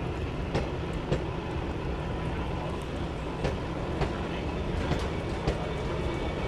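Train running on the rails: a steady low rumble with irregular sharp clacks of wheels over rail joints.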